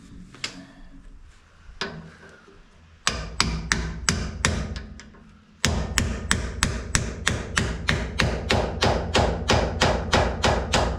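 Hammer striking a seal driver to drive a new grease-packed axle seal into a rear axle housing. A couple of single blows, then two steady runs of quick strikes, the second about four a second.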